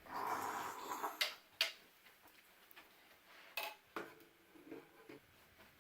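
Faint clicks and knocks of plastic toy dinosaur skeleton pieces being handled. A soft rustle comes first, then two sharp clicks about a second in and two more near three and a half to four seconds in.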